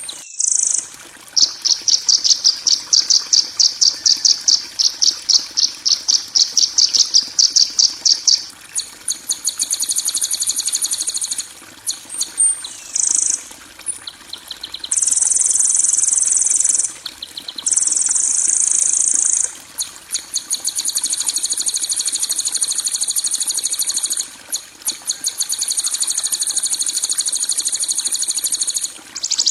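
Bird-training 'masteran kasaran' recording: harsh, high-pitched songbird trills and buzzy chirps, of the kind played to teach cage birds rough-toned song. It opens with a pulsing trill of about five notes a second, then runs on as long, dense buzzing trills broken by short pauses.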